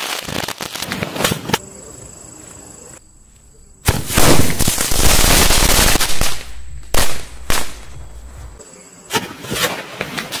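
Sky shot and ground spinner (chakri) firework combo going off: rapid crackling at first, then a quieter hiss, a loud dense burst of fizzing and crackling about four seconds in, two sharp bangs around seven seconds, and scattered cracks near the end.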